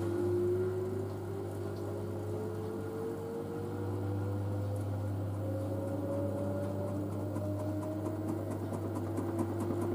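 LG DirectDrive washer dryer's direct-drive motor whining steadily upward in pitch as the drum accelerates into its spin, once the load has passed its final balance check. A steady low hum runs underneath.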